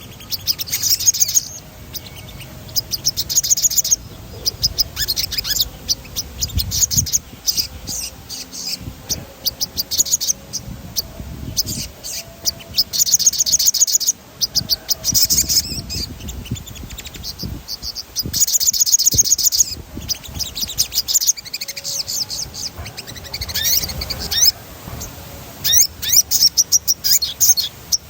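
Crimson sunbird (sogon) singing: rapid, high-pitched rolling trills in repeated bursts of a second or two.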